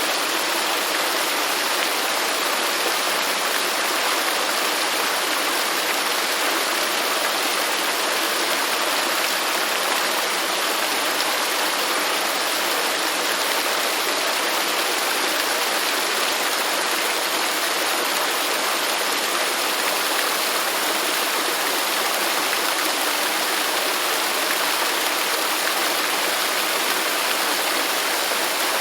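Waterfall rushing: a steady, unbroken hiss of falling and splashing water.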